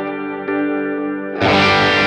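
Electric guitar played through a Line 6 HX Stomp, its wet effects feeding dual amp models with mild drive and chorus. A chord rings on, a softer note comes in about half a second in, and a louder, brighter chord is struck about 1.4 seconds in.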